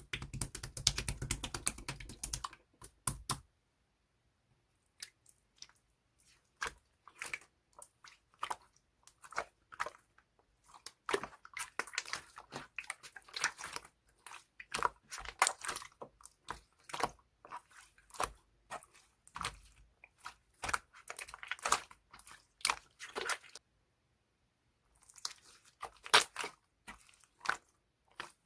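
Hands squishing and pressing a slime mixed with angel clay (air-dry clay), making quick sticky crackles and small pops in dense runs, broken by two short pauses.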